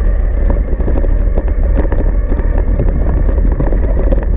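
Wind rumbling on a GoPro action camera's microphone while riding an electric mountain bike along a trail, with frequent rattles and knocks from the bike over rough ground.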